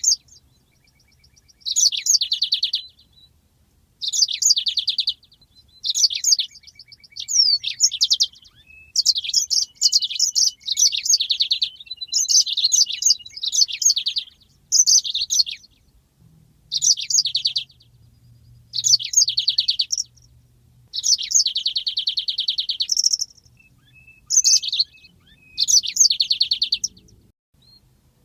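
Yellow-fronted canary (Mozambique canary) singing a long run of high, quick song phrases, each a second or so of rapid rolling trills and chirps, with short pauses between them.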